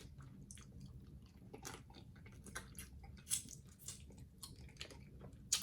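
Faint chewing of food close to the microphone: soft wet smacks and clicks of a mouth eating, one a little louder about three seconds in.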